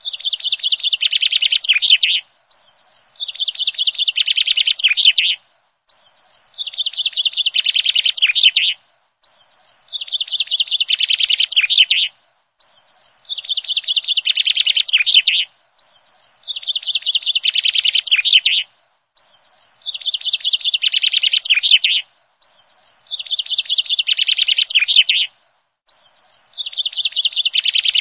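Songbird chirping: the same rapid, chattering phrase of about two seconds, repeated every three and a half seconds or so with a short pause between, identical each time.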